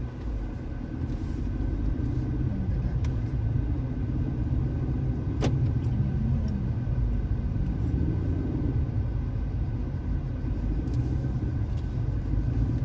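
Car driving uphill: a steady low rumble of engine and road noise, with one sharp click about five and a half seconds in.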